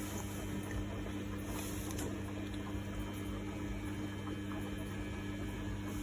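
Samsung WF1700WRW front-loading washing machine running its daily programme: a steady electrical hum with a wash of water noise, unchanging throughout.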